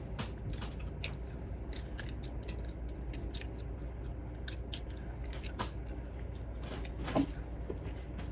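Chewing gum loudly and obnoxiously with the mouth open: a string of short, irregular smacking clicks, with one slightly louder smack about seven seconds in.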